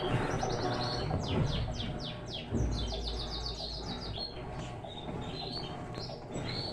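Small birds chirping in quick runs of short falling notes, over a steady low hum.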